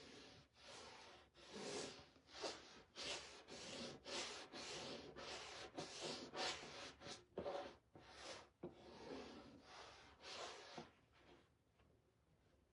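Rubbing strokes of a wet wipe over a painted wooden frame, wiping dark wax back off the edges, in a quick repeated rhythm of about two strokes a second.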